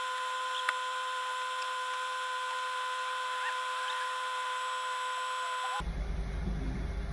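A steady electronic hum with a high hiss, broken off sharply about six seconds in and replaced by the low steady rumble of a car engine idling, heard from inside the car.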